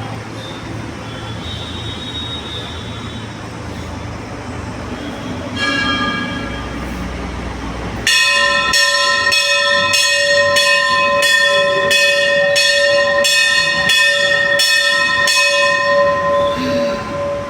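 A Hindu temple bell rung repeatedly, about fifteen strokes at roughly two a second, its ringing fading out near the end. A few seconds before that, a different bell is struck once.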